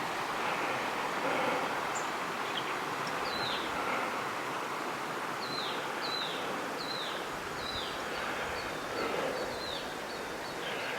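A bird repeating short, high, downward-sliding calls, about one to two a second and thickest midway, over a steady hiss of outdoor noise.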